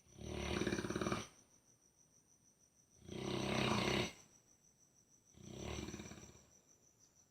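Dog snoring: three long, rasping snores about two and a half seconds apart, the third quieter.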